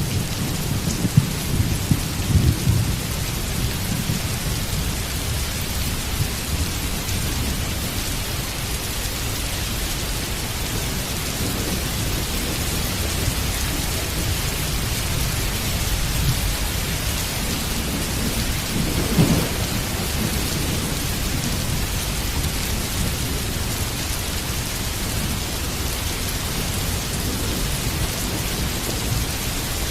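Heavy rain falling steadily, with low rolling thunder underneath that swells in the first few seconds and again about two-thirds of the way through.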